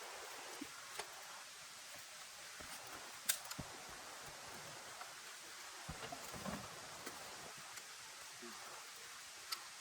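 Steady hiss of rain with scattered clicks and knocks over it, the sharpest about three seconds in.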